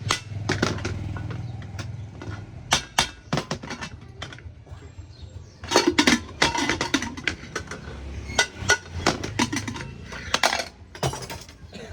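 Hand tools clinking and tapping irregularly on hard parts during repair work, busiest in the second half, over a low steady hum.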